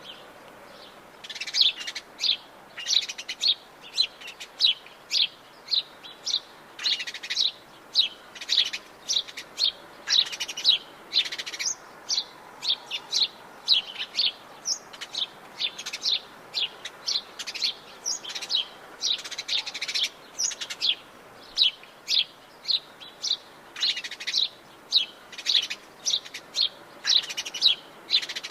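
Birds chirping: a dense run of short, sharp, high chirps repeating several times a second, over a faint steady background hiss.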